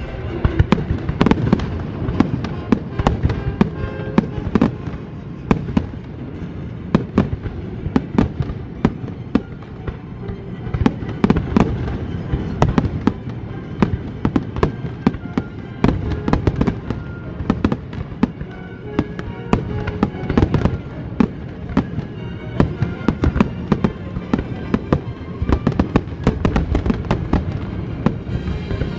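Aerial fireworks bursting in rapid, overlapping volleys of sharp bangs and crackles, with music playing underneath.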